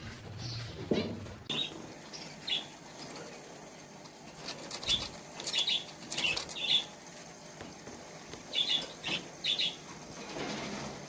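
Cage birds fluttering their wings and giving short, high chirps in small clusters of two to four.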